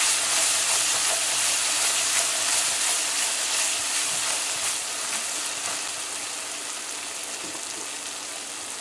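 Curry paste and onions sizzling as they fry in hot oil in a karahi, stirred with a silicone spatula through the first few seconds. The sizzle is a steady hiss that gradually gets quieter.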